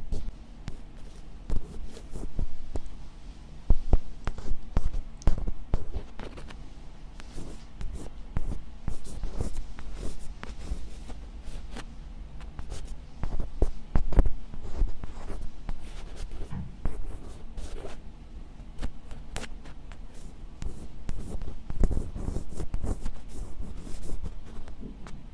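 Close-miked ASMR scratching: quick, irregular scratching strokes one after another with no pause, some louder than others.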